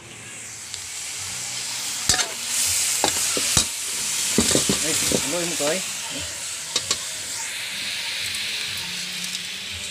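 Pork leg pieces sizzling as they sauté in a wok with tomato and onion, while a metal spatula stirs them and knocks against the pan a few times.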